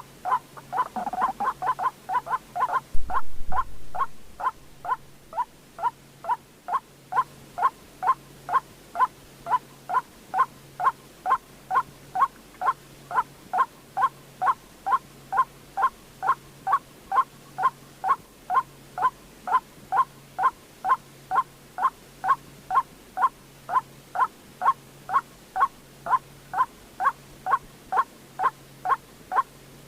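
White-breasted waterhen call: a monotonous run of short, slightly falling notes, about two a second. The notes are quicker and overlapping for the first few seconds, and there is a brief low thump about three seconds in.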